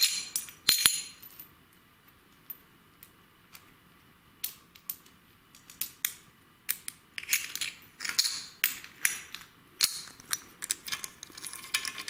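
Light metallic clinks and clicks of a wrench, bolt and washers being worked on the pivot of a Dnepr motorcycle's leading-link front fork. A few sharp clinks at the start, a quieter stretch with only faint ticks, then busier clinking through the second half.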